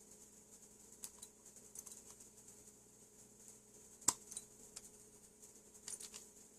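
Scattered light clicks and taps of small metal parts and hand tools being handled, with one sharper tap about four seconds in and a quick pair near the end, over a faint steady hum.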